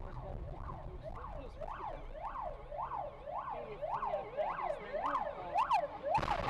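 Emergency vehicle siren sounding a fast up-and-down wail, about two sweeps a second, growing louder toward the end before being cut off by a sudden burst of louder noise.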